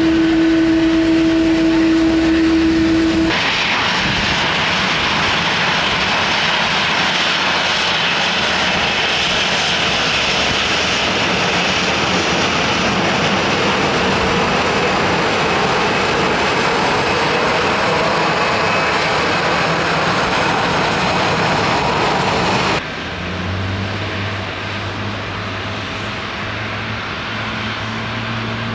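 Jet airliner engines at close range, in three edited clips: first a steady pitched tone, then about twenty seconds of loud rushing engine noise with slowly shifting pitch, then an abrupt drop to a quieter low hum.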